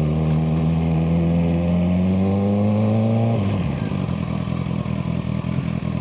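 Suzuki GSX-R600 inline-four engine pulling under throttle, its pitch rising steadily. About three and a half seconds in the throttle closes and the engine drops into an uneven, pulsing off-throttle rumble as the bike slows.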